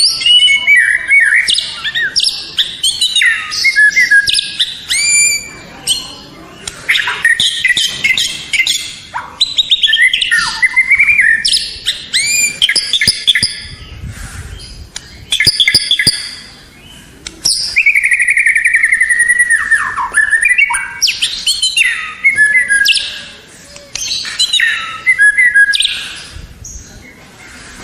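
White-rumped shama (murai batu) singing a long, varied song of clear whistles, rapid trills and sweeping notes that rise and fall, phrase after phrase with short pauses between.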